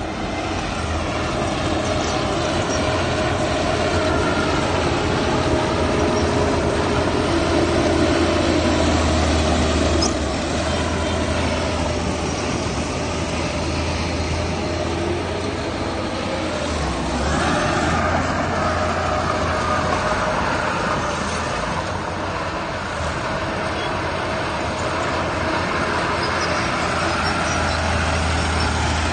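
Heavy diesel machinery engine running steadily under load, with a deep hum, and a higher-pitched note joining it for a few seconds a little past halfway.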